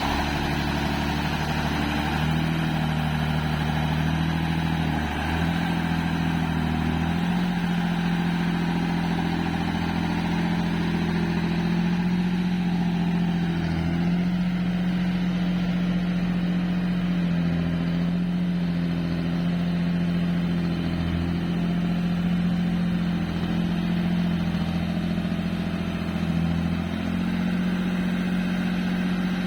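Truck engine running steadily, its pitch shifting a few times in the first several seconds and then holding level.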